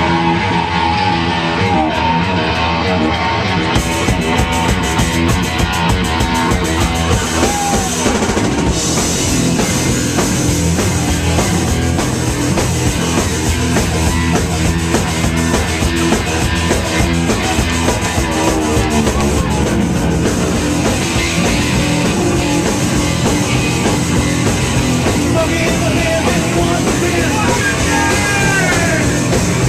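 Rock music with a drum kit and guitar playing steadily and loudly.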